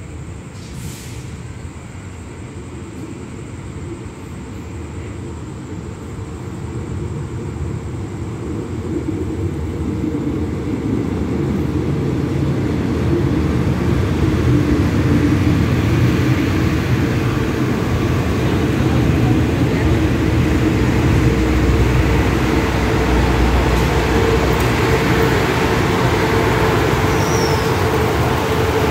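Diesel-hauled express passenger train approaching and pulling into the station. The low rumble of the locomotive and the rolling wheels grows steadily louder for about fifteen seconds, then holds steady as the stainless-steel coaches roll slowly past the platform.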